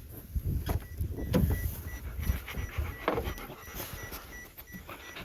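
A golden retriever panting in quick, uneven breaths.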